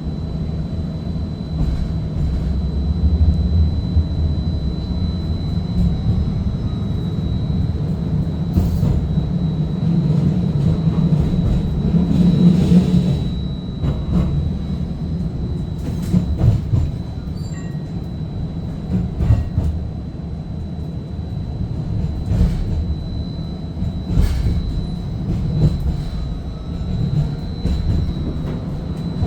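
Inekon Trio streetcar rolling along its rails, heard from inside the car: a steady low rumble with a thin high whine, and sharp clicks and knocks now and then. The rumble swells a little before halfway through.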